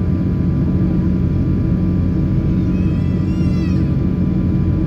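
Steady, loud rumble of airliner cabin noise inside a Boeing 777-300 in flight: engine and airflow noise. About three seconds in, a brief high-pitched cry rises and then falls.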